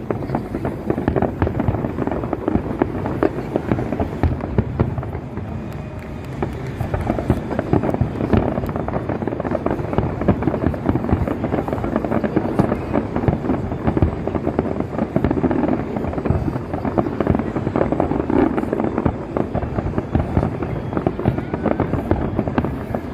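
Aerial fireworks display: a dense, continuous barrage of bangs and crackling bursts, one shell after another with no pause.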